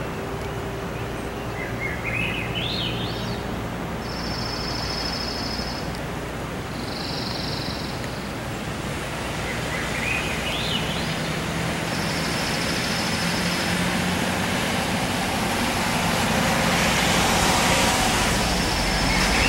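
Birdsong: high, even trills about a second or more long, repeated every few seconds, alternating with rising series of chirped notes. Underneath is a steady rushing noise that grows louder near the end.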